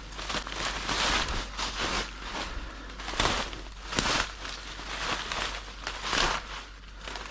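Crunching, rustling footsteps about once a second, as of someone walking through dry grass or leaves.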